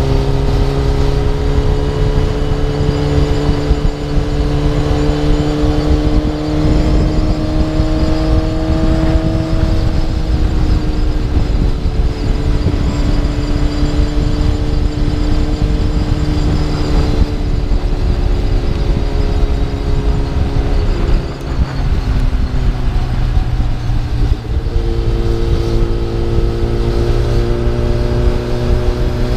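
Kawasaki ZX-10R inline-four engine running steadily at cruising revs under heavy wind noise. Its pitch climbs slowly, eases down about ten seconds in, and steps up again a few seconds before the end.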